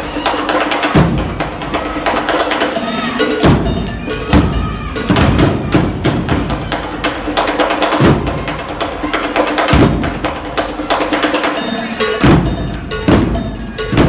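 Drumline playing a fast cadence: rapid sharp strikes with heavy low drum hits every second or two.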